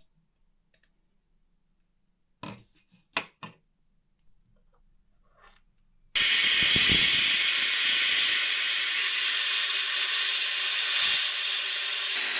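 A few light clicks and knocks, then about six seconds in a loud, steady hiss of rushing air starts and keeps going.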